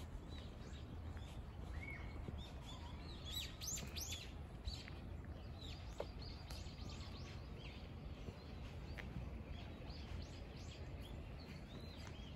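Small birds chirping, many short high calls, busiest a few seconds in, over a steady low rumble of outdoor background noise.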